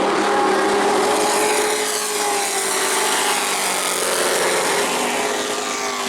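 Engines of a pack of Pro Truck race trucks running at high revs on track. Several engine notes slide up and down together as the trucks pass.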